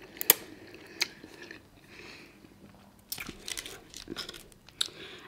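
Close-miked chewing of a mouthful of noodles: soft wet mouth noises with scattered small clicks and crunches.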